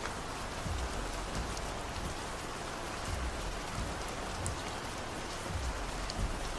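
Steady rain on a car, with a low, uneven rumble of road noise underneath and a few faint drop ticks.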